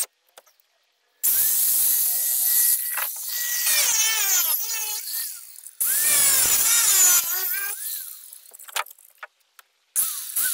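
Handheld power tool scoring the boat's floor in three bursts, its motor pitch rising and falling as it bites and eases off, with sudden silent gaps between the bursts.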